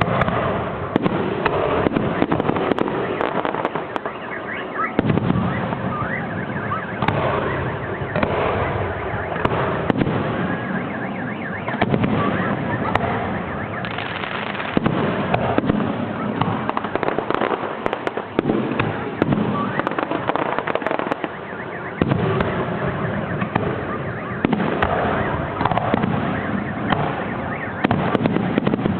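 Fireworks display: a continuous, dense barrage of shell bursts and crackling, with no pause.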